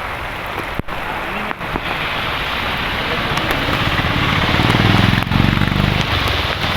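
Steady, loud rushing noise of rain and running water. A motor vehicle's engine comes up under it about three and a half seconds in, is loudest around five seconds, and fades before the end.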